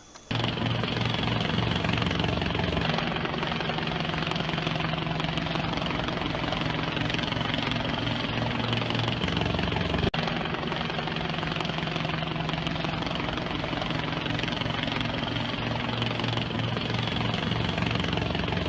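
Steady drone of an aircraft engine, with a brief sharp click about ten seconds in.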